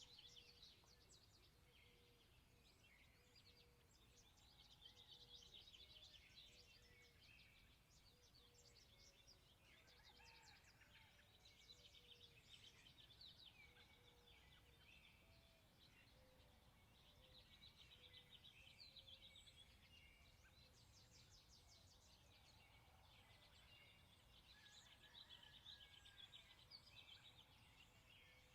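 Faint chorus of several songbirds singing and calling, with overlapping high chirps and trills throughout.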